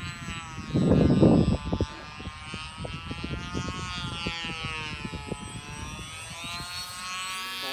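Small electric model aeroplane's motor and propeller whining, the pitch rising and falling as the throttle is worked. Wind buffets the microphone, loudest about a second in.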